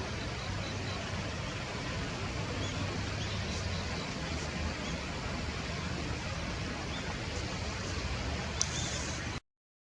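Steady outdoor background noise with a few faint, short, high calls of a common kingfisher scattered through it, and a brief sharper high call near the end. The sound then cuts off abruptly.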